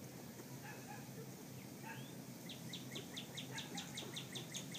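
A bird's rapid chirping trill, a fast even run of short, high, down-sweeping notes about six a second, starting about halfway in. It comes over a few soft scattered chirps and a steady low background hum.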